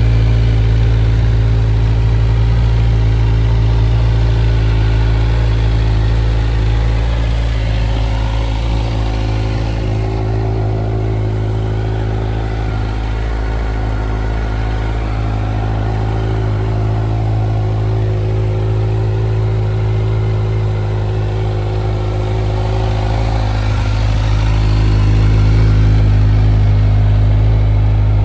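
Kawasaki Z1100's inline-four engine idling steadily with an even, low-pitched running note, swelling a little louder for a few seconds near the end.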